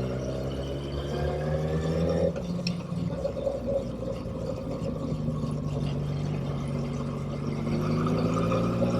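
Motorcycle engine under way, its pitch rising as it accelerates, then a short break about two seconds in like a gear change. It runs steadily after that and rises again near the end.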